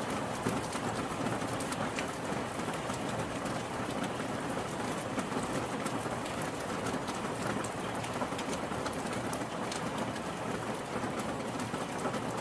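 Steady rainfall: an even wash of rain with many individual drops ticking sharply through it.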